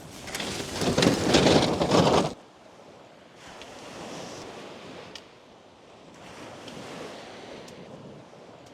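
Ocean surf washing on the beach, with wind. A loud rush of wind and water for about the first two seconds stops abruptly, then softer waves swell and fall back a few times.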